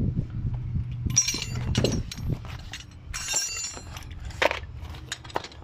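Metal parts and tools clinking and clattering, several sharp ringing clinks, over a low steady hum that fades out about two seconds in.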